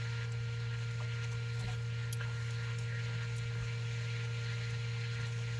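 Small portable fan running with a steady low hum, and a few faint light clicks in the first couple of seconds.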